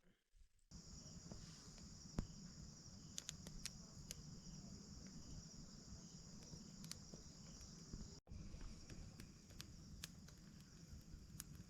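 Faint, steady chirring of night insects, likely crickets, with a few scattered faint clicks.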